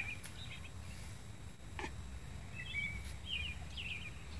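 Wild birds chirping outdoors, a scattered handful of short high calls, over a low steady background rumble.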